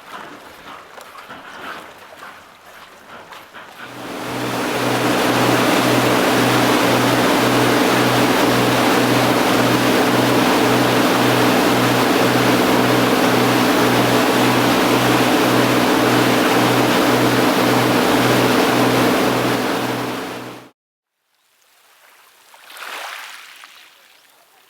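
A motorboat's engine running steadily with a low pulsing hum under a loud rush of water and wind. It comes in about four seconds in and cuts off suddenly about 20 seconds in.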